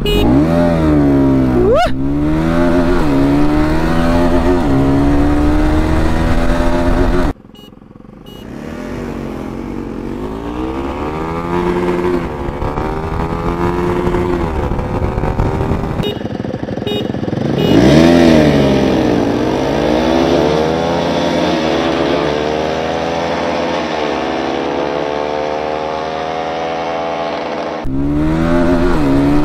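Bajaj Pulsar NS200 motorcycles' single-cylinder engines accelerating hard from a drag-race launch, the engine pitch climbing and dropping back with each upshift, again and again. The sound jumps abruptly about a quarter of the way in, near the middle and near the end.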